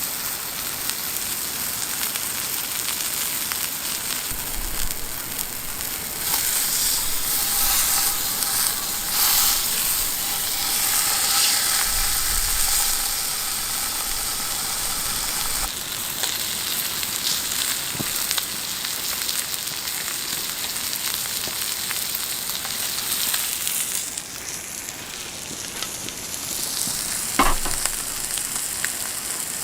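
Food sizzling as it fries in a hot pan, a steady hiss that eases off about 24 seconds in, with one sharp click near the end.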